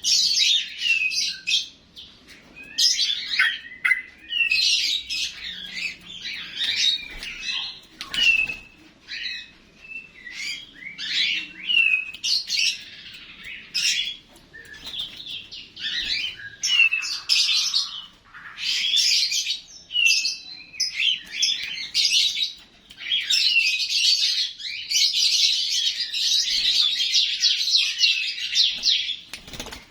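Yellow-vented bulbul (trucuk) singing: a string of short chirping phrases with brief pauses between them, running together into an almost unbroken song in the last several seconds.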